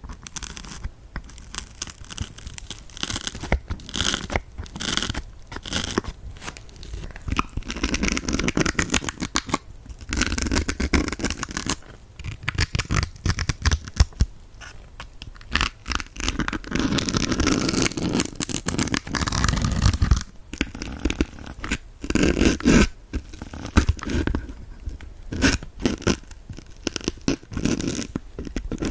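Needles being stuck into a kitchen dish sponge, making crackly scraping and crunching in short, irregular bursts, with two longer dense stretches of rasping in the middle.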